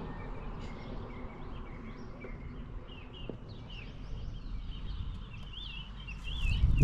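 Small birds chirping, with short wavy repeated calls that grow busier in the second half, over a steady low outdoor rumble. A loud low thump comes right at the end.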